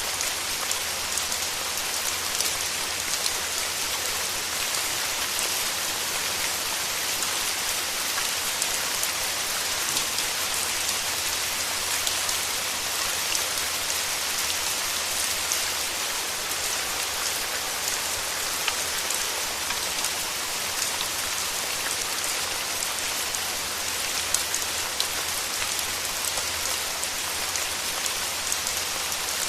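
Steady rain falling on foliage in a rainforest, a dense even hiss full of small drop ticks.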